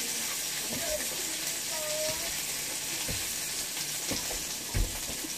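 Sweet peppers and onions sizzling steadily in a hot pan on an electric stove, with a few low knocks, the loudest near the end.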